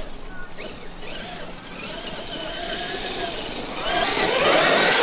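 Traxxas X-Maxx RC monster truck's electric motor whining as it drives, the pitch rising and falling with the throttle. It grows much louder about four seconds in.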